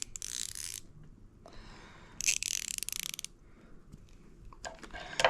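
Icon quarter-inch ratchet converted to a 3/8-inch drive, ratcheting in two quick runs of rapid fine clicks, then a few separate clicks near the end.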